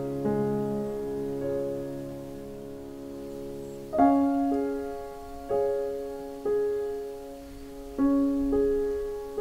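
Slow background piano music: single notes and chords struck one after another, each left to ring and die away.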